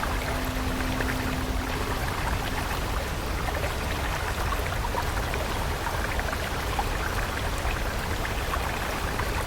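Flowing stream water rushing steadily. A soft held synth note sounds over it and fades out about two seconds in.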